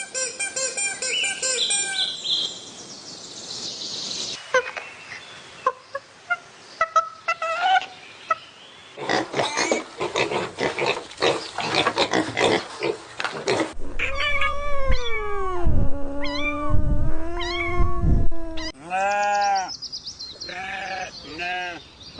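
A run of animal calls, ending in several short rising-and-falling cat meows.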